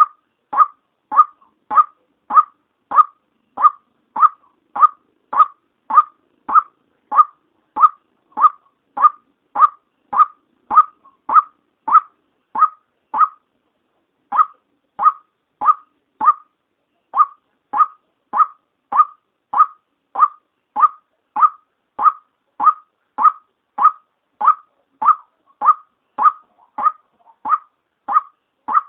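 A female white-breasted waterhen calls, a lure recording used to draw waterhens in. Short, even notes repeat about twice a second, with a brief break near the middle.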